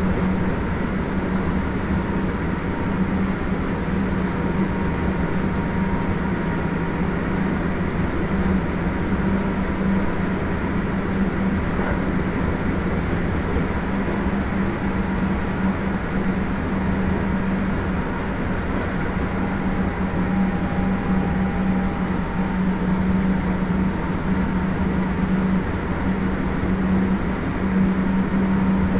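Kintetsu 1420 series VVVF prototype electric train running at a steady speed: a steady low hum over rumbling wheel and rail noise, with faint high tones near the middle and around two-thirds through.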